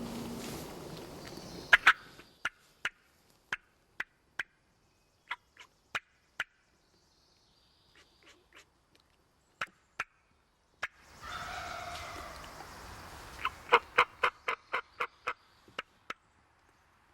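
Wild turkeys calling: a string of separate sharp clucks, then a quick run of loud notes about two-thirds of the way in. A rush of noise opens the stretch and comes again just after halfway.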